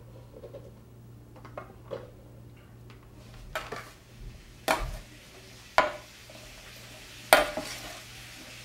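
Metal pan and kitchen utensils clattering: a few light clinks, then four sharp knocks spaced about a second apart. After the last knock a faint sizzle begins as food goes into the hot pan.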